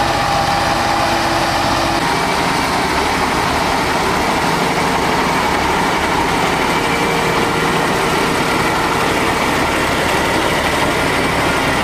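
Heavy truck engine running steadily, a continuous mechanical drone with a slight change in its note about two seconds in.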